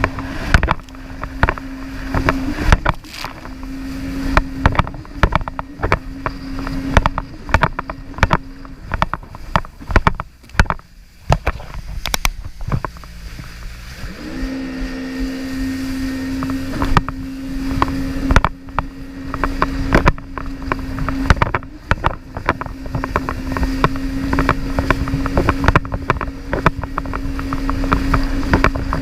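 Jet ski engine running at a steady pitch, with many short sharp knocks and slaps over it. The engine note drops away about nine seconds in and comes back with a brief rise about five seconds later.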